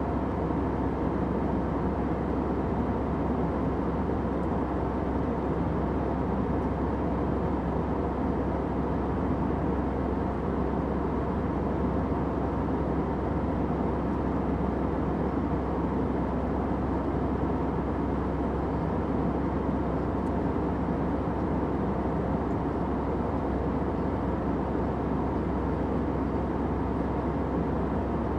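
Airplane cabin noise in flight: a steady low drone with a soft hiss above it, unchanging in level.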